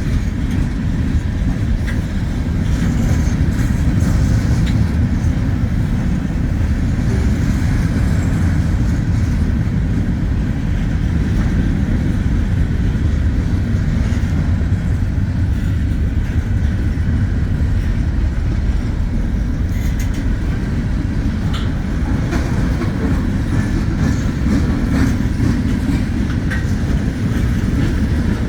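Wheeling & Lake Erie freight train rolling past, a steady low rumble from the freight cars with scattered clicks and clatter of wheels over the rail.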